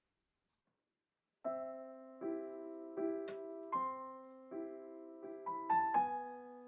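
Silence, then solo piano music starts about a second and a half in, playing a run of struck chords that each ring and fade.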